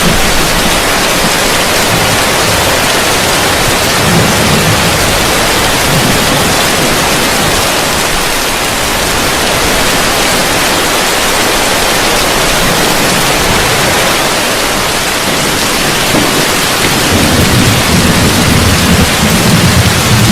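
Heavy rain falling on a roof: a steady, dense hiss. A low rumble of thunder swells briefly about four seconds in and builds again near the end.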